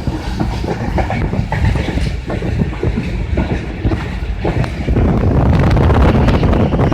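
Pakistan Railways passenger train passing close by, its coach wheels clacking irregularly over the rail joints. From about five seconds in, the clacks merge into a steadier, louder rumble.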